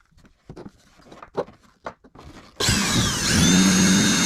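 A few light knocks of handling, then a power drill starts suddenly about two and a half seconds in and runs on with a steady whine after a short rise in pitch.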